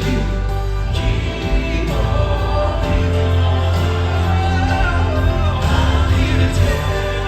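Live Southern gospel music: a male vocal group singing in harmony over instrumental backing with a strong, steady bass.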